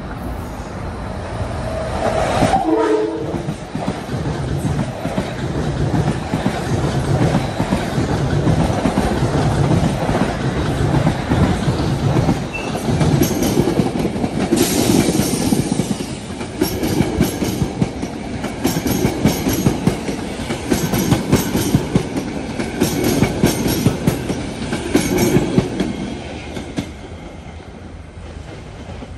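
Metro-North electric commuter train sounds a short horn about two seconds in, then runs past close by with a rumble and a regular clickety-clack of wheels over rail joints, fading near the end.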